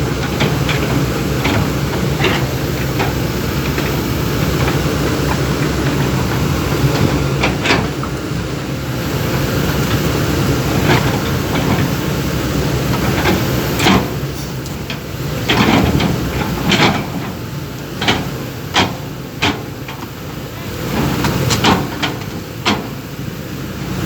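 Backhoe engine running steadily, with repeated sharp knocks and clunks that come more often in the second half.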